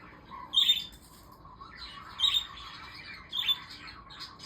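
Pet budgerigars (parakeets) squawking: three loud, sharp calls about a second apart with softer chirping between them, the birds anxious.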